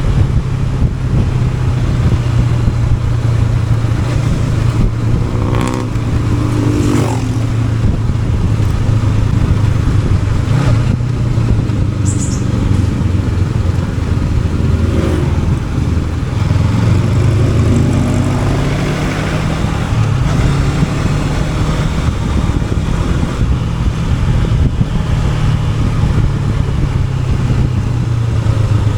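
Honda NX500's parallel-twin engine running on the move, with the engine note rising and falling a few times as the throttle changes, over steady wind and road noise.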